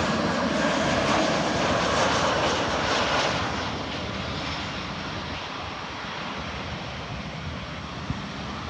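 An Airbus A319 twin-jet airliner on its landing approach, its jet engines giving a steady rushing roar with a faint high whine at first. The noise falls away about three and a half seconds in as the plane passes, then holds at a lower steady level.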